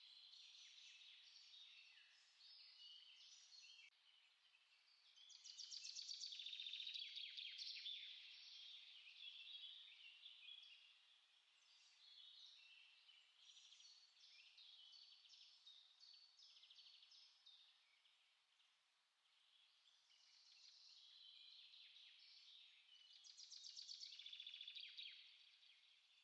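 Several small songbirds singing and chirping at once in overlapping high phrases, with fast trills growing louder about five seconds in and again near the end.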